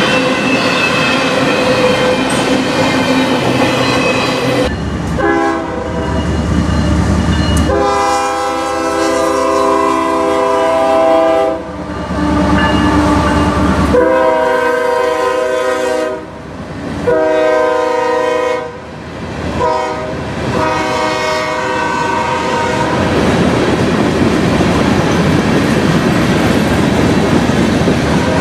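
A locomotive's multi-chime air horn sounds a string of long and short blasts over the middle of the stretch. Before and after the horn, the train runs past with wheels rumbling and clacking over the rails.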